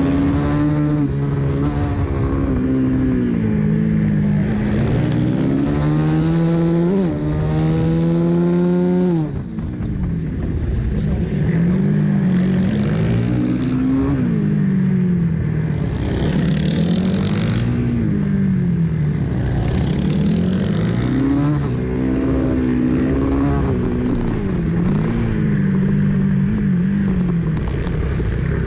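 Supermoto race motorcycle's engine heard from onboard at racing speed, revving hard and shutting off again and again: a long climbing run that drops sharply about nine seconds in, then a series of quick rises and falls in pitch as the throttle is opened and closed through the corners.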